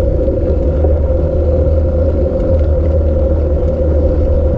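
Steady rumble of wind buffeting the microphone of a moving bicycle, with a constant mid-pitched hum running underneath.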